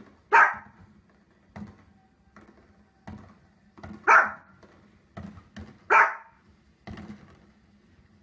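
Small dog barking three times, sharp and loud: once right at the start, then about four seconds in and again about six seconds in. Fainter short knocks sound in between.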